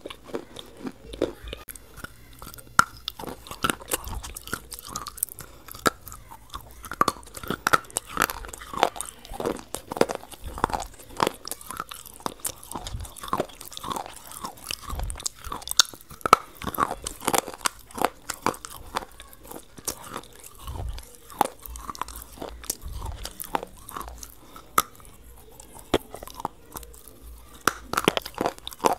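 A person chewing and biting food close to a clip-on microphone: a dense, irregular run of crunches and mouth clicks.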